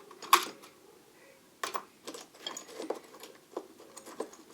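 Small metal lathe cutters clinking and knocking together as they are handled in a toolbox drawer: one sharp clink about a third of a second in, then a string of lighter, irregular clicks.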